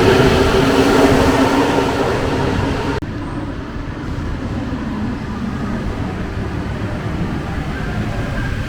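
Paris Métro Line 1 rubber-tyred MP 05 train running, a loud rumble with a steady hum that fades over the first three seconds, then cuts abruptly to a quieter, steady rumble.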